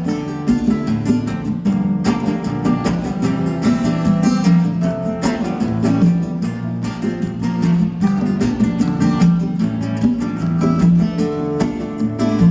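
Acoustic guitar playing an instrumental passage of a song, strummed and plucked chords in a steady rhythm.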